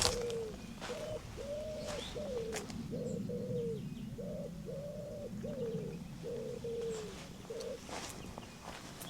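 A bird calling in a long series of short, low cooing notes, about two a second, that stops a little before the end. A few footsteps fall in between.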